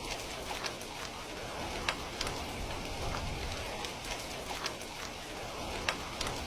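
Steady rain with the irregular sharp pops of a crackling wood fire. The loudest pops come about two seconds in and again near the end.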